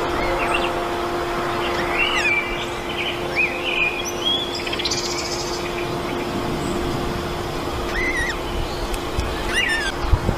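Small wild birds chirping in short, rising and falling calls every second or two, with a buzzy trill about five seconds in, over a steady low hum and rumble from the outdoor camera.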